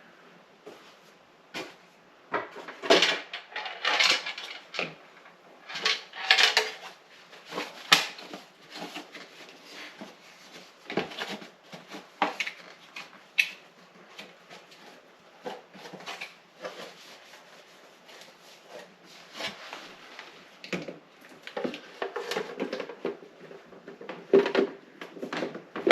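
Irregular clicks, knocks and clattering of plastic and metal parts being handled and fitted, as a refrigerator's water valve and its wiring are put back together.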